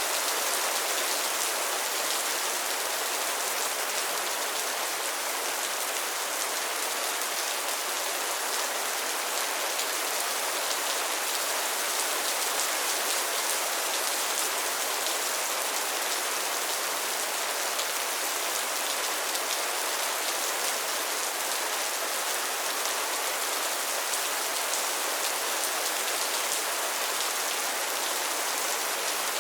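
Steady rain falling on a pond and its lily pads, a dense even patter of drops on water and leaves.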